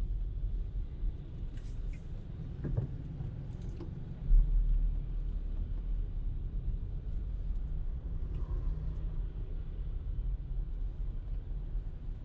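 Car driving, heard as a steady low rumble of engine and road noise, with one short low thump about four seconds in.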